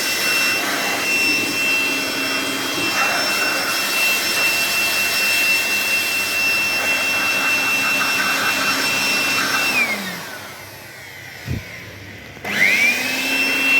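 An electric motor running with a steady high-pitched whine and a lower hum. It is switched off about ten seconds in and winds down with falling pitch. A single thump follows, then the motor is switched on again and spins back up with rising pitch.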